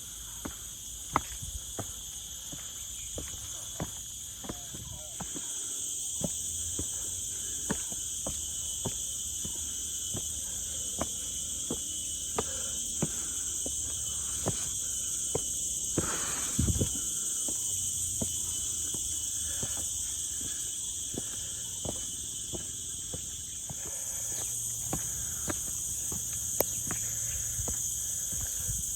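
Steady, shrill chorus of insects in dry forest, growing louder a few seconds in and easing near the end. Under it, irregular sharp clicks of footsteps on the trail.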